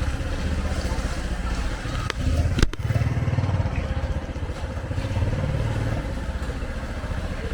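Motorcycle engines running in street traffic, a steady low rumble, with one sharp knock about two and a half seconds in.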